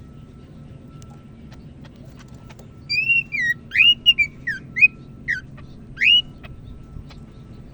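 Cucak ijo (green leafbird) singing a short burst of clear whistled notes that slide up and down, about ten notes in three seconds, starting a little under halfway through and stopping about two seconds before the end.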